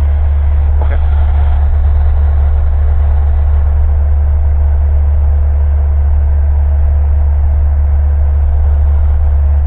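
Steady low drone of a Cessna's single piston engine and propeller, heard inside the cockpit, with one faint click about a second in.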